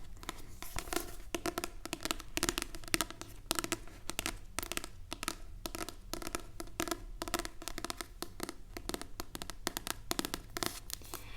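Rapid, irregular fingernail tapping on an object, many light taps a second, with a slight hollow ring to them.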